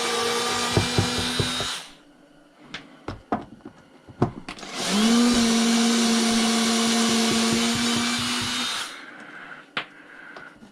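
Handheld power tool running in two bursts of a few seconds each, a steady motor whine over a hiss; the second burst spins up in pitch at its start. A few sharp knocks come between the bursts. The tool is working plastic off a cast aluminum chopsaw part.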